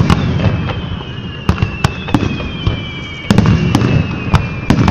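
Fireworks going off: an irregular run of sharp bangs, several in quick succession, with a thin high tone gliding slowly downward in the background.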